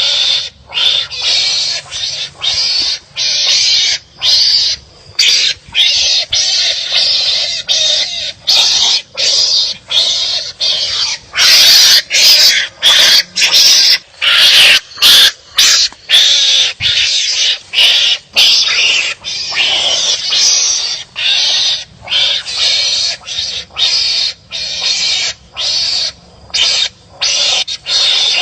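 Animals calling harshly at each other in a fight, a rapid run of loud, rasping calls about one to two a second with short breaks between them.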